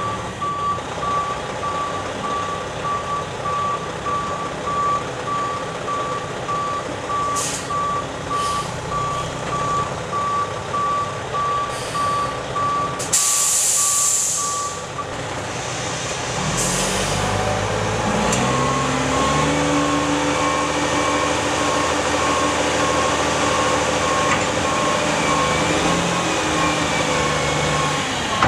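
Mack Granite roll-off truck's reverse alarm beeping steadily, with short air hisses and a loud air-brake hiss about 13 seconds in. About 17 seconds in the diesel engine revs up and holds high while the beeping resumes.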